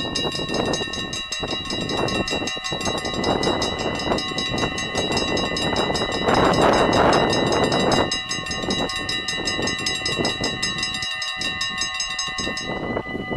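Level crossing warning bells ringing in a fast, steady ring, with a Sprinter regional train running through the crossing, loudest about six to eight seconds in. Near the end part of the ringing cuts off.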